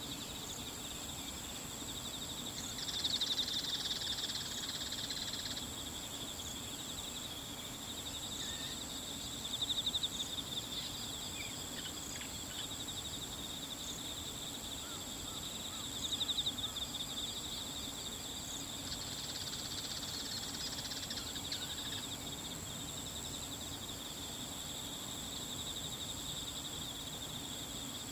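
Steady chorus of singing insects: a pulsed trill and a thin high steady tone. A few louder calls stand out over it, for a few seconds near the start, briefly around a third and a half of the way in, and again for a couple of seconds past two-thirds.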